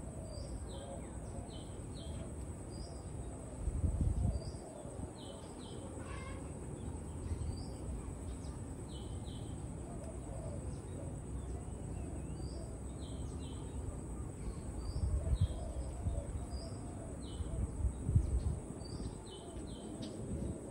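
A wild bird calling in short high chirps, single and in pairs, every second or two, over a steady high insect drone. A few louder low rumbles on the microphone come about four seconds in and again near the end.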